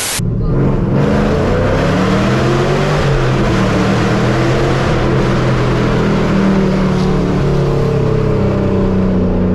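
Loud performance-car exhaust running steadily at low engine speed. It starts abruptly with a brief hiss.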